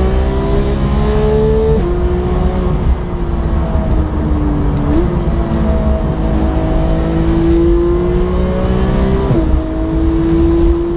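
Porsche 991 GT3's naturally aspirated flat-six with a SharkWerks exhaust, heard from inside the cabin while driving through the gears. The engine note climbs and drops suddenly at an upshift about two seconds in, sags as the car eases off, jumps up at a downshift about five seconds in, then climbs again to another quick upshift near the end.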